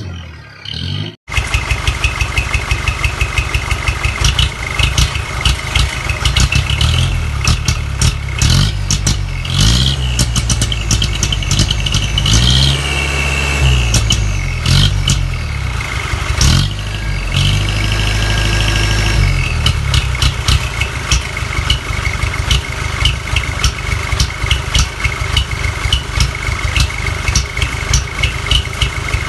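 Truck engine running through a loud 'cung' aftermarket exhaust, idling with a rapid, even pulsing beat. It starts abruptly about a second in and is revved up and down a few times in the middle before settling back to idle.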